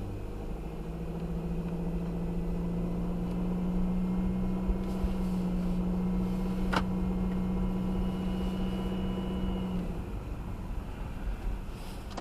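Steady low whine over the engine and road noise of a 2018 Subaru Outback 2.5i (flat-four with CVT), heard from inside the car. It cuts off about ten seconds in, and there is a single sharp click about seven seconds in. The owner suspects the CVT transmission or a faulty charging system.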